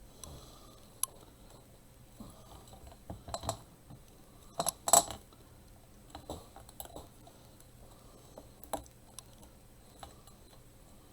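Hands handling craft pieces for a bird cage made from candy trays: scattered light clicks and clinks, a few knocks about three and a half seconds in and a louder pair of knocks about five seconds in.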